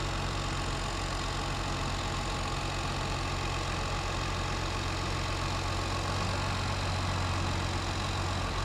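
New Holland TG215 tractor's diesel engine idling steadily with a low hum.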